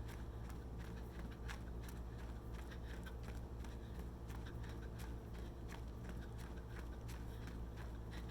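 Running footsteps, quick crunching steps at about three a second, over a steady low rumble.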